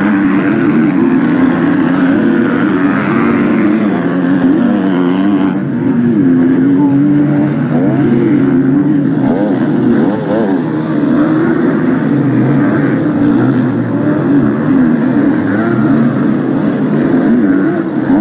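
Motocross bike engines on track, their pitch rising and falling continually as riders open and close the throttle.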